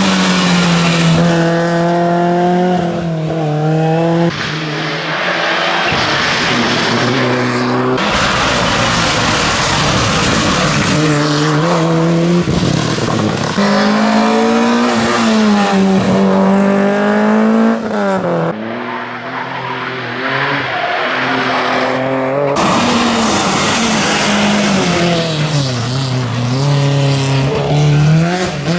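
Rally cars at full pace, one after another: engines revving hard, the pitch climbing and dropping in steps with each gear change, over a rushing haze of tyre and road noise.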